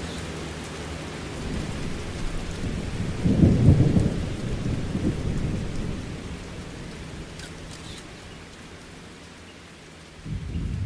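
Rainstorm: steady rain hiss with a low rumble that swells about three seconds in, dies away, and returns just before the end.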